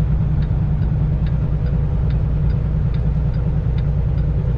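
Semi truck's diesel engine running with a steady low rumble heard inside the cab, under the even ticking of the turn signal, about two and a half ticks a second, as the truck makes a left turn.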